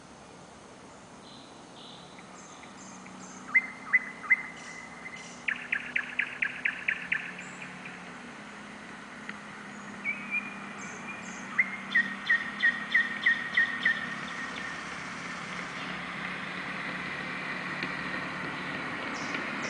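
Nightingale singing in separate phrases with pauses between them: a few loud single notes, a fast rattling series of notes, then a run of evenly repeated notes. A low hum of distant traffic grows louder toward the end.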